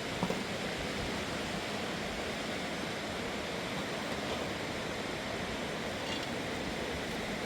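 Steady rushing of a fast-flowing mountain river, an even hiss of water with no change in level.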